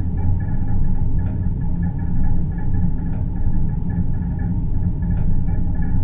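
Produced deep-space ambience drone: a steady low rumbling hum with faint higher tones above it, and faint soft ticks about every two seconds.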